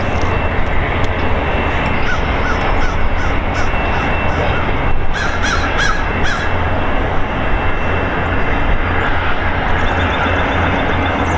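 VIA Rail passenger train pulling away, a steady rumble with a low hum underneath. Over it a bird gives harsh calls in short quick series, about two seconds in and again around five seconds.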